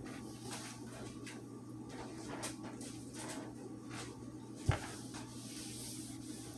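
Kitchen handling noises: scattered soft clicks and knocks, with one louder thump a little under five seconds in, over a steady low hum.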